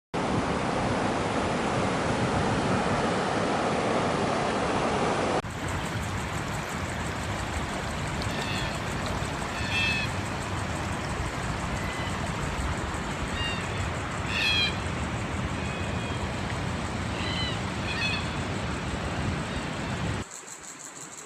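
Steady rushing of water, which cuts about five seconds in to a slightly quieter rush. Over it, birds give short, repeated chirping calls.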